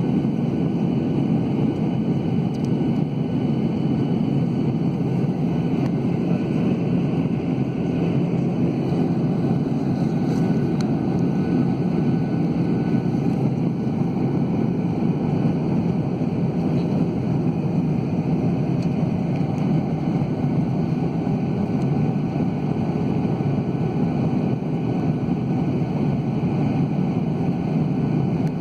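Cabin noise inside a Boeing 737-800 in flight: the steady, even roar of the jet engines and the airflow over the fuselage, heard from a window seat.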